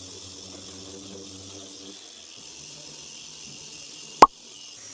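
A machine runs with a steady hum and a high hiss, its pitch dropping a little about two seconds in. A single sharp, loud click comes near the end.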